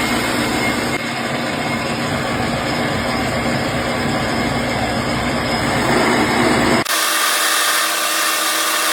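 Metal lathe running while turning down a brass bar to remove the bulk of the material, a steady loud machining noise. About seven seconds in the sound changes abruptly: the low rumble drops out, leaving a steadier hiss.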